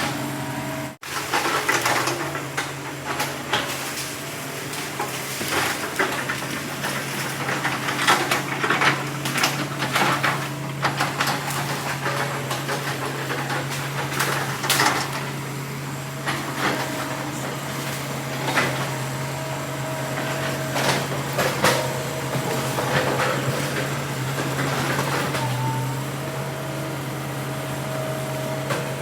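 Diesel engine of heavy logging machinery running steadily, with repeated knocks and clanks over it. The sound drops out briefly about a second in.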